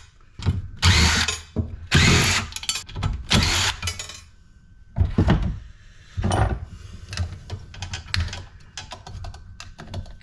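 Power drill running in bursts: two longer runs in the first few seconds, then two shorter ones, followed by a quick series of small clicks and knocks near the end as parts of a cast aluminum light fixture are worked loose.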